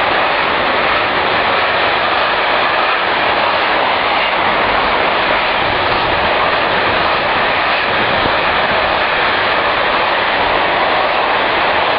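Container freight train's wagons rolling past close below, a loud, steady rumble of wheels on rails.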